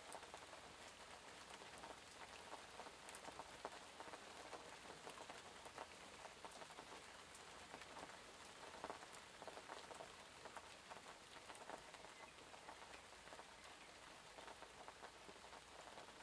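Faint steady rain: an even hiss dotted with many small, scattered drop ticks.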